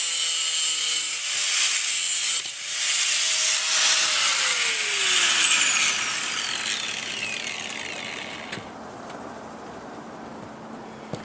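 Angle grinder cutting 3/8 rebar, a loud hissing grind. About four seconds in it is switched off, and its whine falls steadily in pitch as the disc spins down, fading away over the next few seconds.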